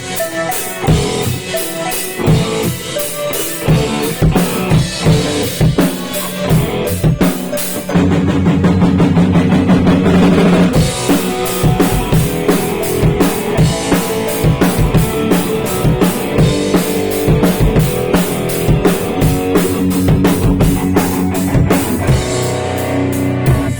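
A rock band at rehearsal playing the instrumental intro of a song on drum kit and guitar, the drums keeping a steady beat. About eight seconds in the drums stop for roughly three seconds while held chords ring out, then the beat comes back in.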